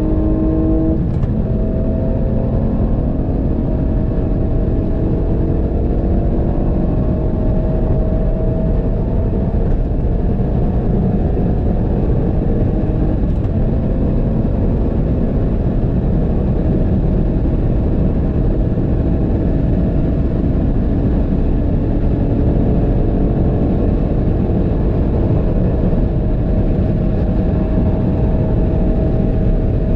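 Tuned Ford Fiesta ST Mk8's turbocharged 1.5-litre three-cylinder engine under full-throttle acceleration at high speed, its pitch climbing slowly. There is a gear change about a second in. A heavy low rumble of wind and road noise runs underneath.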